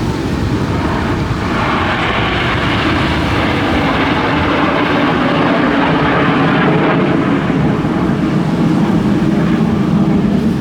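Aircraft flying past, its engine noise loud and steady, growing louder and brighter about a second and a half in.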